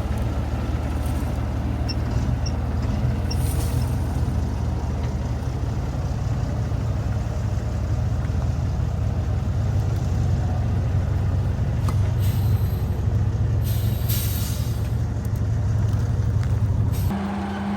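Heavy old truck's engine running steadily under load on a steep descent, with a few short hisses of air from the brakes about twelve and fourteen seconds in. Near the end the engine note changes suddenly, the deep rumble dropping away and a steadier higher hum taking over.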